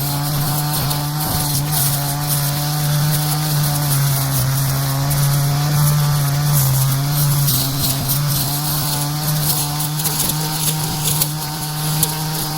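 Brush cutter's engine running steadily at high revs, with scattered crackles over it.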